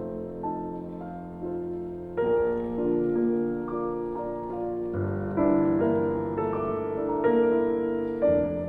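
Slow piano music: sustained chords with single notes struck over them, a new chord entering about two seconds in and another about halfway through.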